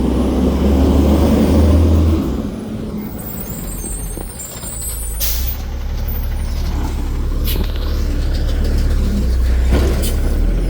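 Garbage truck engine running, louder for the first two seconds, easing off, then running steadily again, with a short hiss of air from the brakes about five seconds in.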